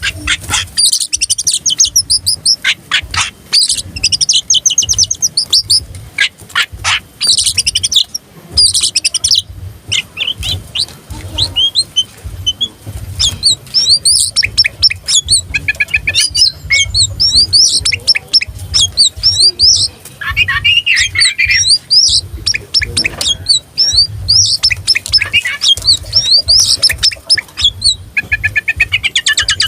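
Oriental magpie-robin singing continuously: a fast, varied song of rapid whistles, trills and sharp clicking notes, with only brief pauses.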